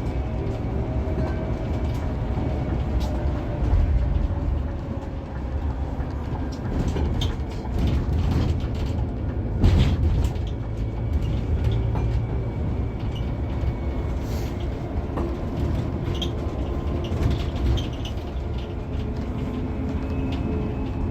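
Scania K360 coach on the move: a steady low engine and road rumble with a faint whine. A single thump stands out about ten seconds in.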